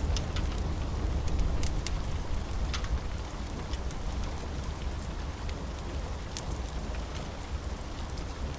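Steady rain, with a low thunder rumble dying away over the first few seconds and scattered sharp crackles of a wood fire.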